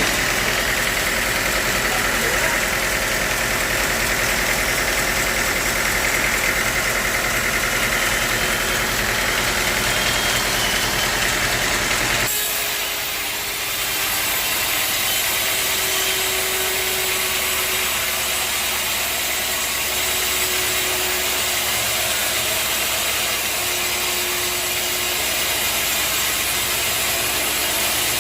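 Sawmill machinery running steadily with an engine-like drone. About twelve seconds in the sound changes abruptly and loses much of its low rumble, leaving a lighter machine noise with a faint intermittent hum.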